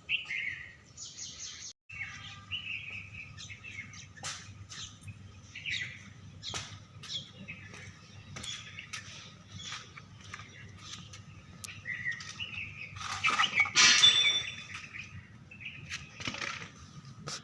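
Small birds chirping on and off, louder about three-quarters of the way through, over a faint steady low hum and a few sharp clicks of tools being handled.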